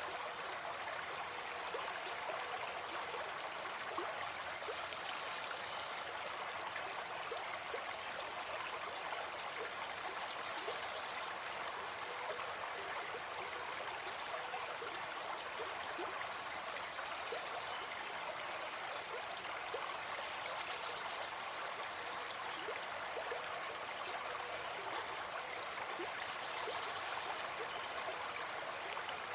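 Gentle forest stream flowing steadily: an even rush of water sprinkled with many tiny splashes and clicks.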